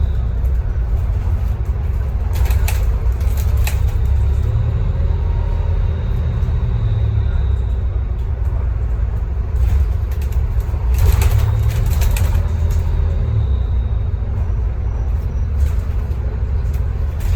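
Scania K310UB city bus's diesel engine and drivetrain running under way, a steady low rumble. Bursts of rattling come in about three seconds in and again from about ten to twelve seconds.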